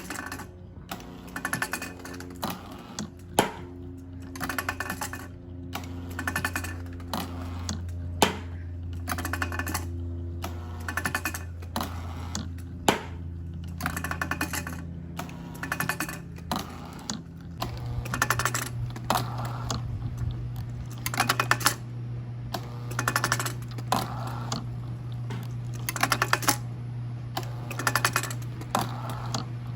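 Homemade low-RPM hydraulic engine running, with a cluster of rapid clicks and rattles about once a second over a steady hum. The hum steps up a little in pitch just past halfway.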